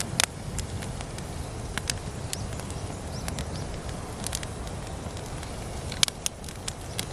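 Wood campfire crackling: irregular sharp pops over a steady low rumble, the loudest pop about six seconds in.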